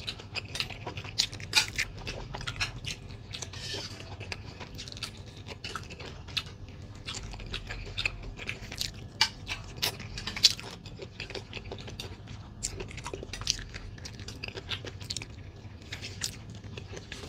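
Close-up mouth sounds of gnawing and chewing meat off a soup bone: many short, wet clicks, smacks and small crunches at irregular intervals.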